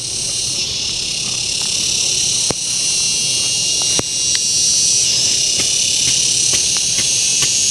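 A dense, steady chorus of insects, high-pitched, with a few sharp clicks through it.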